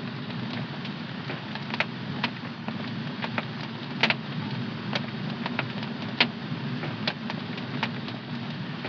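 Wood fire in a home fireplace crackling: irregular sharp pops, the loudest about four and six seconds in, over a steady low rumble.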